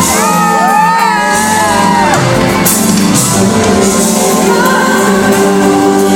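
Live pop concert heard from the audience in a large hall: band and singer performing, with shouts and whoops from the crowd in the first two seconds or so.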